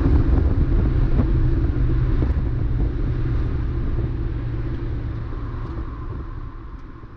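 Mazda MX-5 race car's engine running with a steady low rumble, fading out over the last few seconds.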